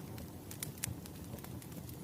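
Wood fire crackling: irregular sharp pops, a few a second, over a steady low rumble.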